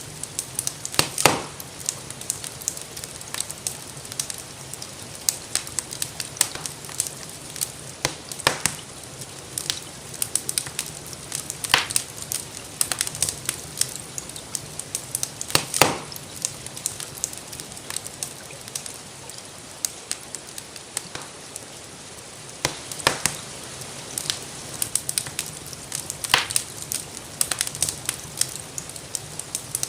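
Wood fire crackling in a fireplace: constant small irregular crackles with a louder pop every few seconds, over a steady soft hiss of rain.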